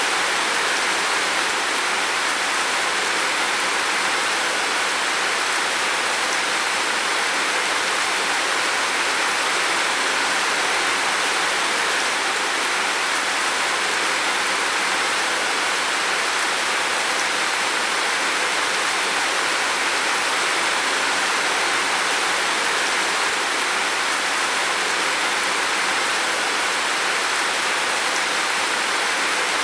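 Heavy rain falling steadily on a roof, a dense, even hiss without breaks or single drops standing out.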